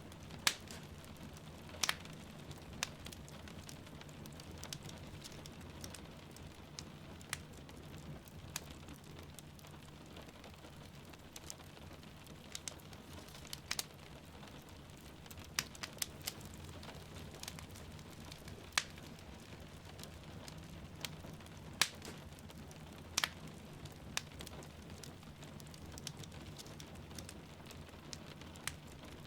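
Wood fire crackling and popping in a fireplace with irregular sharp snaps, over a steady hiss of rain falling outside.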